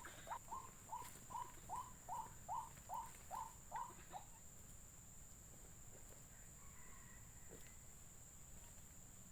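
White-breasted waterhen (ruak-ruak) calling: a quick series of short rising notes, about two or three a second, that stops about four seconds in.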